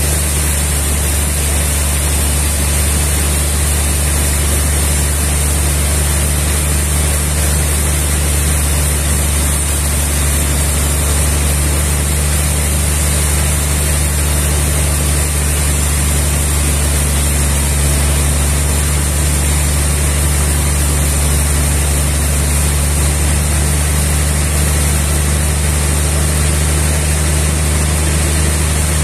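Sawmill machinery running steadily, a continuous engine drone with a constant high hiss and no change in load.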